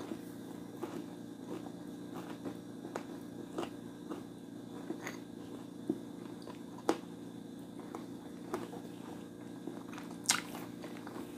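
Close-miked chewing and biting of food, with irregular crisp crunches and mouth clicks, two of them louder, about seven and ten seconds in, over a steady low hum.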